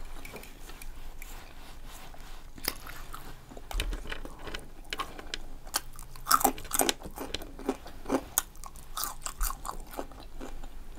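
A person chewing a mouthful of Philly cheesesteak and fries, with irregular wet mouth clicks and smacks that are loudest about six seconds in.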